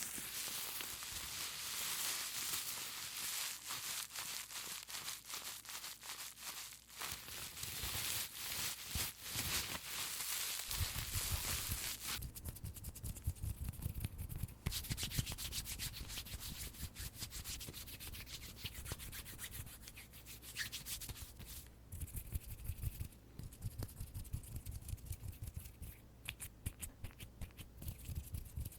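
Bubble wrap squeezed in the hand, giving a dense crinkling crackle, which gives way about eleven seconds in to soft, rhythmic rubbing sounds from hand movements close to the microphone.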